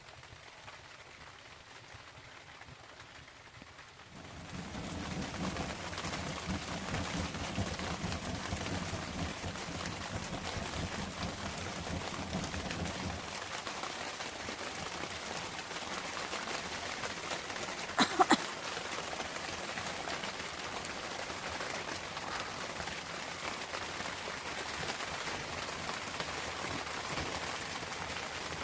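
Heavy rain falling, setting in suddenly a few seconds in and carrying on steadily. About two-thirds of the way through, two sharp knocks come close together.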